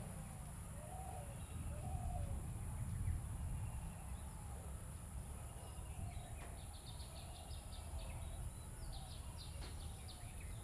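Birds calling: a run of low, arched cooing phrases, with two bursts of quick, high chirping trills in the second half, over a steady low rumble.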